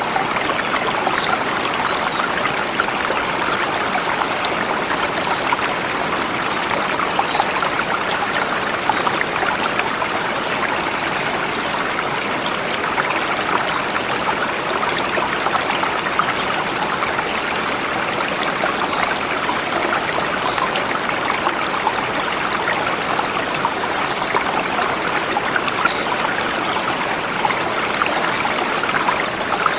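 Forest river flowing swiftly over rocks: a steady, unbroken rush of water.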